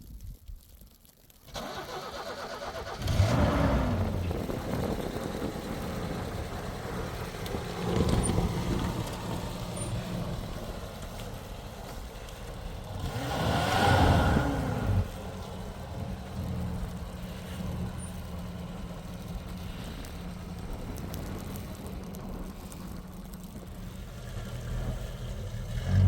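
A vehicle engine starts after a second or two of quiet, then runs steadily, revving up and back down three times, most strongly about two-thirds of the way through.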